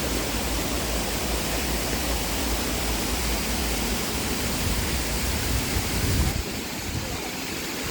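Steady rushing of a waterfall's falling water, with a deep low rumble under it. About six seconds in it becomes a little quieter and duller.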